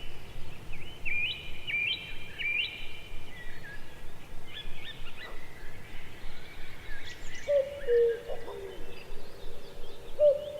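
Birds chirping and trilling in high, quick phrases, joined in the second half by a lower, held whistled call that repeats a few times.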